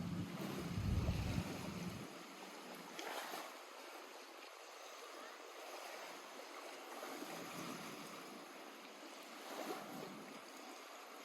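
Small lake waves lapping at the shore: a soft, even wash that swells gently now and then. A low rumble sits under it for the first couple of seconds, then stops.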